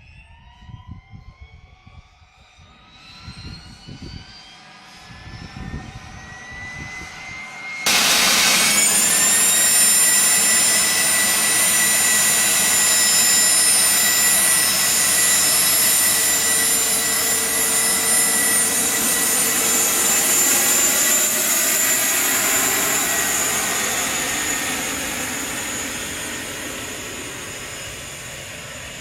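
Pratt & Whitney Canada PW617-F turbofans of an Embraer Phenom 100E: a rising whine as an engine spools up at start, then, about eight seconds in, a sudden jump to the loud, steady whine of the jets at high power, which slowly fades over the last few seconds.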